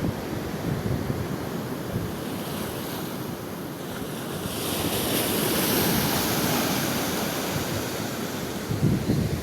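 Ocean surf washing steadily under the pier, with wind buffeting the microphone; the wash swells louder for a few seconds in the middle.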